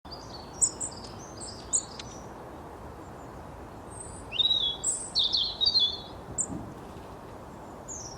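Small birds chirping in quick, high-pitched twitters, in two flurries, over a steady background rush of noise.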